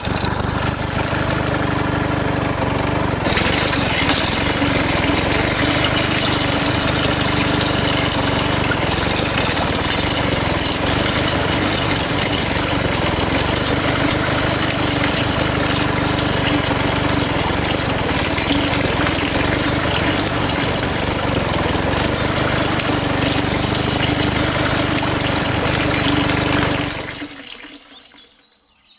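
A small motor-driven water pump running steadily with water gushing and splashing, louder after about three seconds and fading out near the end.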